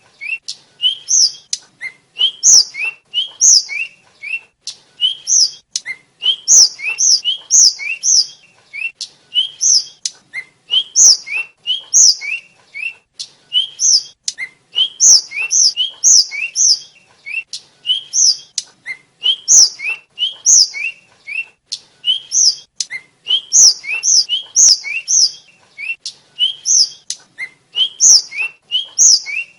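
A flycatcher of the kind Indonesian bird keepers call tledekan or sikatan, singing a fast, unbroken run of short, sharp whistled notes. High notes alternate with lower ones in quick groups that repeat over and over.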